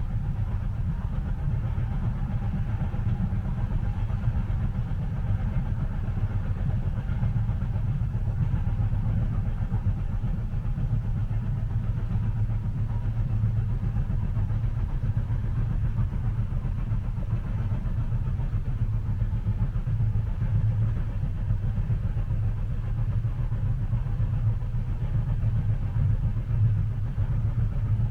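Steady low rumble of a train heard from inside a passenger car while it runs along the track, even throughout with no distinct clacks or changes.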